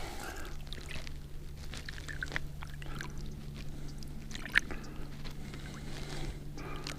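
Light sloshing and small splashes of river water around a flathead catfish held in the water to revive it before release, with one sharper splash about four and a half seconds in, over a steady low hum.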